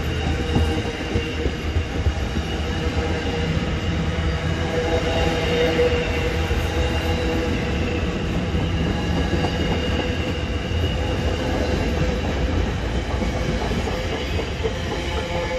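Freight train of empty container flat wagons rolling past: a steady rumble of steel wheels on the rails, with thin squealing tones from the wheels.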